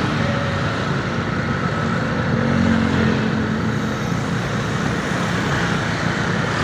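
Steady road noise from moving motorbikes and traffic: a low engine rumble under a continuous rushing hiss, growing slightly louder around the middle.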